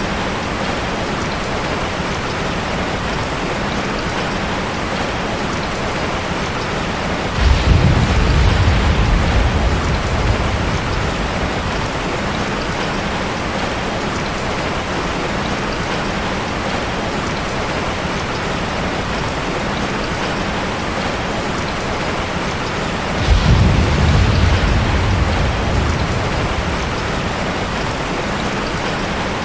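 Heavy rain falling steadily, with two low thunder rumbles, one about a quarter of the way in and one about three-quarters of the way in, each starting suddenly and fading over a few seconds.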